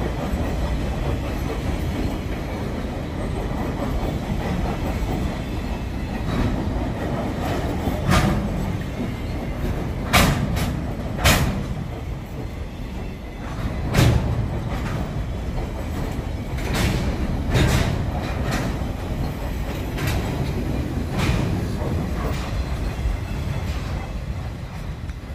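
Container train's loaded flatcars rolling past close by: a steady rumble of steel wheels on the rails, broken by sharp clacks every few seconds. The last car passes near the end and the rumble begins to ease.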